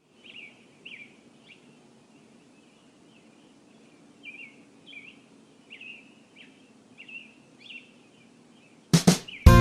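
A bird calling with short high chirps, repeated irregularly about once or twice a second, over faint steady background noise. Loud strummed guitar music starts near the end.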